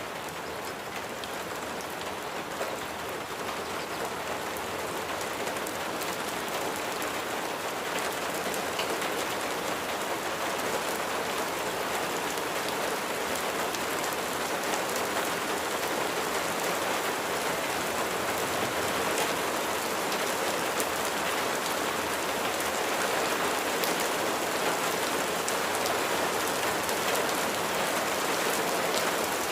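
Steady rain falling on a surface: a dense hiss dotted with many small drop ticks, growing slowly louder.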